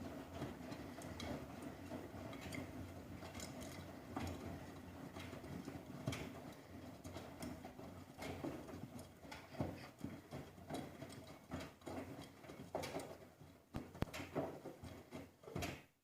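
Miele Softtronic W 3657 front-loading washing machine running: a steady motor hum as the drum turns, with irregular knocks and clicks of laundry tumbling inside. The sound cuts off suddenly at the very end.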